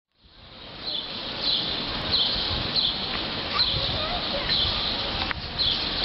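A small bird chirping again and again, about one chirp every two-thirds of a second, over outdoor wind noise rumbling on the microphone.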